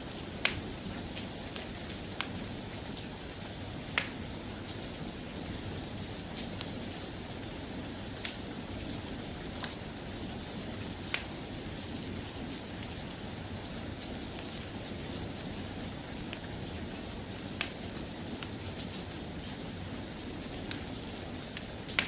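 Steady soft rain, with scattered sharp clicks every few seconds.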